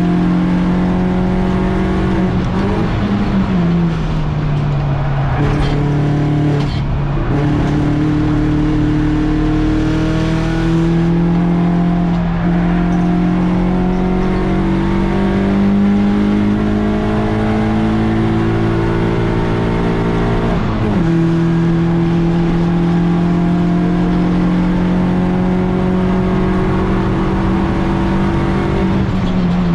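BMW 116i race car's four-cylinder engine pulling hard on track. Its pitch climbs slowly through each gear and drops sharply at the gear changes, about 4 seconds in, around 21 seconds and near the end.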